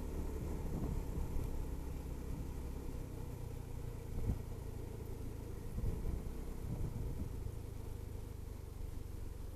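Honda SH300i scooter's single-cylinder engine running at road speed: a steady low drone mixed with road and wind noise, with a few brief louder thumps around four to seven seconds in.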